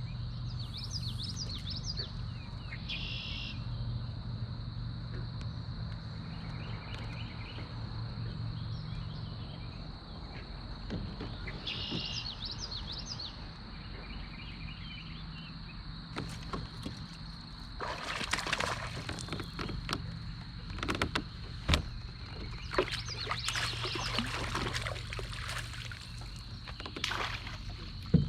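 Outdoor lake sounds heard from a kayak: a steady high insect drone, a few short bird calls, and a low steady hum. In the second half, a run of knocks, clicks and rustling bursts from handling on the kayak.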